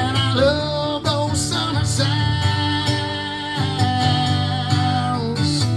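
Country song played on guitar with a band, a steady low beat underneath and a bending melody line over it.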